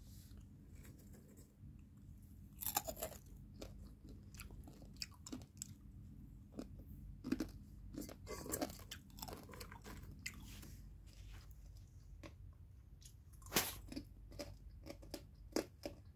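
Popcorn being chewed: quiet, irregular crunching with a few louder crunches.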